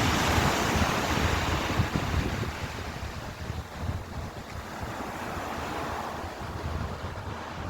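Ocean surf: a wave breaks and washes in during the first couple of seconds, then recedes, with a smaller swell a few seconds later; wind rumbles on the microphone.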